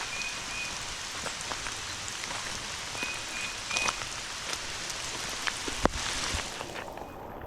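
Steady heavy rainfall hissing on the ground and vegetation, with scattered louder drop ticks and one sharp tick near the end. Two brief runs of short, high chirps sound over it, one at the start and one about three seconds in.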